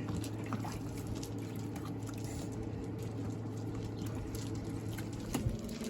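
Water running or pouring steadily, over a low steady hum.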